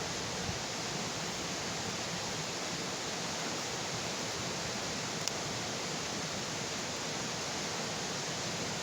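Bonfire burning with a steady rushing hiss, and a single sharp crackle pop a little past halfway.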